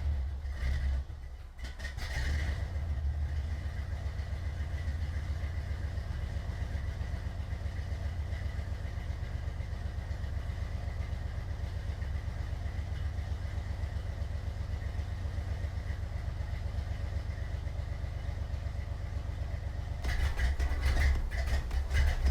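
1979 Jeep CJ7 engine idling steadily after starting, cold and warming up. The level dips briefly about a second in, then gets louder near the end.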